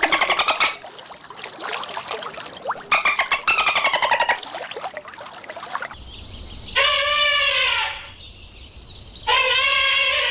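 Animal calls. Short quavering pitched calls come at the start and again around three seconds in. Then two long, steady pitched calls follow, each lasting about a second, one in the middle and one near the end.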